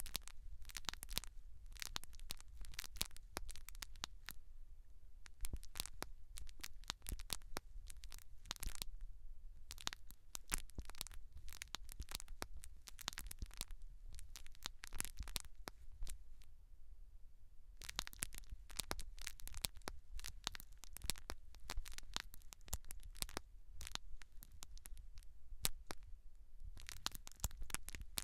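Close-miked scratching and crackling of hair and scalp being worked, heard as dense runs of quick sharp clicks over a low rumble. There is a pause of about two seconds around the middle.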